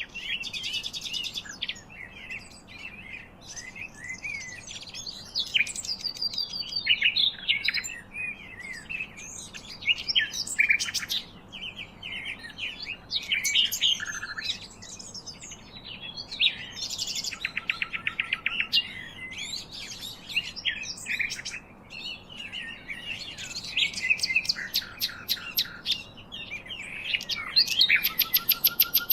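Several songbirds singing and chirping over one another: quick chirps and whistled phrases mixed with fast rattling trills, and a long, fast trill near the end.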